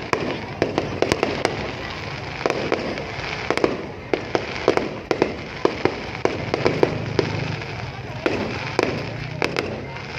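An aerial fireworks display: shells bursting in irregular quick clusters of sharp bangs over a continuous rumbling, crackling haze.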